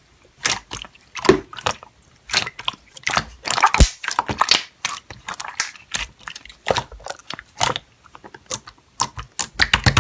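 Slime being pressed and worked by hand, giving irregular crunchy clicks and crackles.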